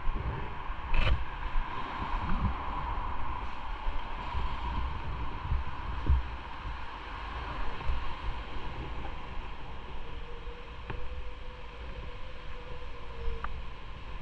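Motorcycle running at low speed, its engine rumble mixed with wind noise on the microphone.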